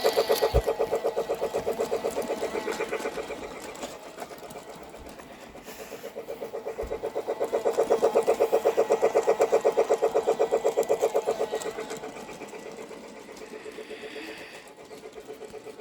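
Pere Marquette 1225 Polar Express model train running around its track, a rapid, even mechanical clatter that grows louder twice as the train comes close and fades as it moves away.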